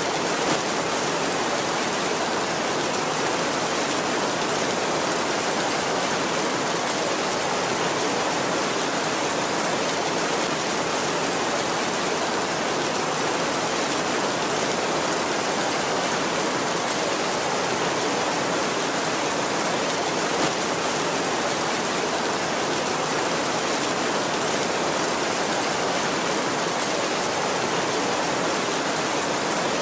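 Heavy rain falling steadily on a tin roof, an even hiss with no thunder, broken by two brief louder taps, one near the start and one about two-thirds through.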